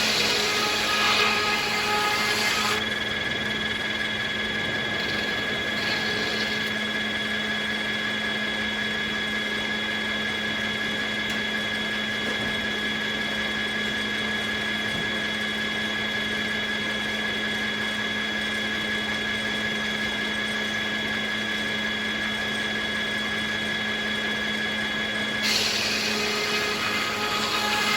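Circular sawmill running, its blade cutting through willow. The cut ends about three seconds in, the mill runs steadily without cutting, and a new cut starts a few seconds before the end.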